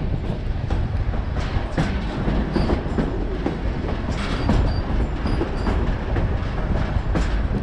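White Pass & Yukon Route narrow-gauge passenger train running over the rails, heard from beside the moving car: a steady rumble with irregular clacks from the wheels over rail joints. A few brief, faint high squeals come from the wheels on the curve.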